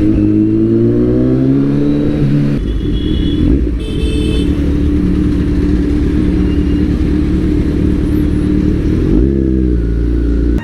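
Kawasaki superbike with an Akrapovic exhaust under way: the engine's pitch climbs under acceleration, drops at a gear change about two and a half seconds in, holds steady while cruising, then changes again near the end.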